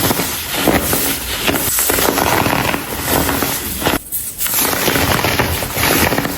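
Dried baking soda chunks being crushed and crumbled: a dense crackle of many small cracks and crunches, with a brief lull about four seconds in.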